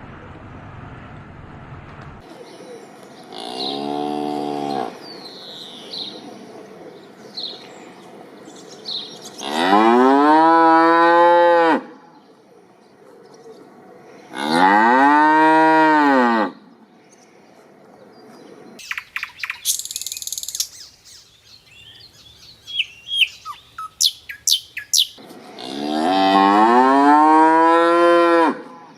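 Cattle mooing: four long calls, each rising and then falling in pitch, the middle two the loudest. Birds chirp and short clicks sound in the gaps between the calls.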